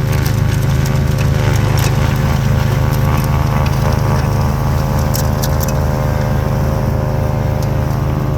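Craftsman YT4000 lawn tractor engine running steadily under load, driving a Craftsman/Bercomac 44-inch front-mounted snowblower through heavy wet snow. A few sharp clicks sound over the engine now and then.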